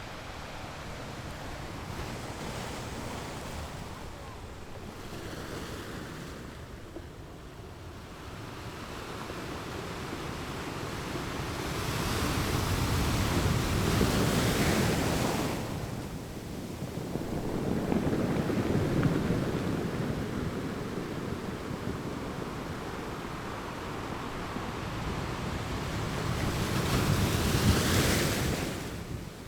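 Surf: waves washing in, a steady rushing that swells three times, about halfway through, a few seconds later, and near the end, with wind on the microphone.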